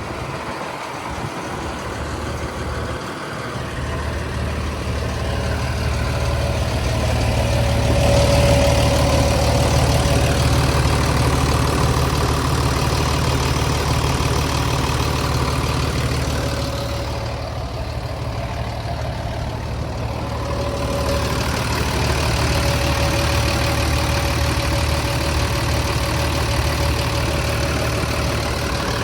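Jet fuel truck engine running steadily with a faint steady whine, getting louder about eight seconds in.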